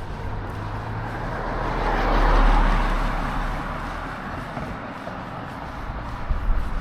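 A motor vehicle driving past, its tyre and engine noise swelling to a peak about two and a half seconds in, then fading away.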